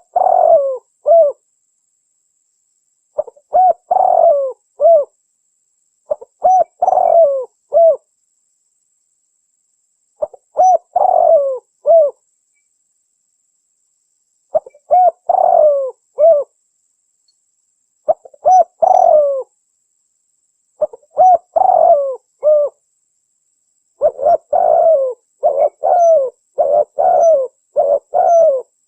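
Spotted dove (tekukur) cooing: short phrases of a few coos, each phrase about a second and a half long, repeated every few seconds. From about 24 seconds in, the phrases come one after another with hardly a pause.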